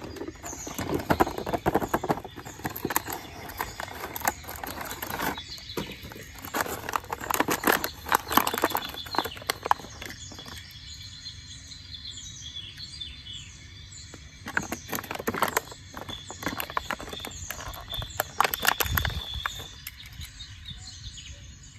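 Toy cars and trucks being handled, making irregular clicks and rattles that come in clusters with quieter gaps. Short high bird chirps repeat in the background.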